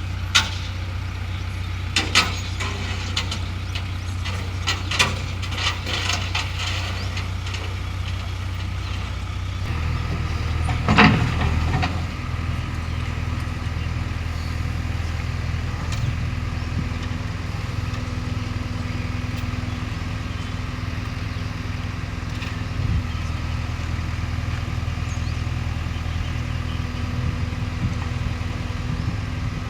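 Diesel engine of a JCB 3DX backhoe loader running steadily, its note shifting to a slightly higher, heavier pitch about ten seconds in. Sharp clanks and knocks sound through the first several seconds, with a louder clatter about eleven seconds in.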